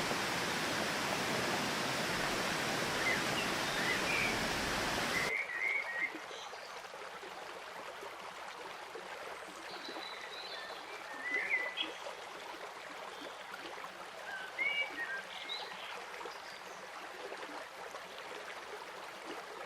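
Steady rushing water noise that cuts off abruptly about five seconds in, giving way to quieter outdoor ambience with a few short bird chirps.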